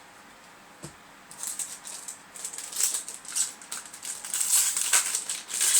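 Foil booster pack wrapper crinkling and crackling as it is handled and torn open. The sound starts about a second in and grows louder in quick, irregular bursts.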